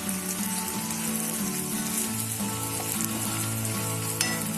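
Tomato masala sizzling in a pan while cooked rice is mixed into it with a spatula, with one sharp tap about four seconds in.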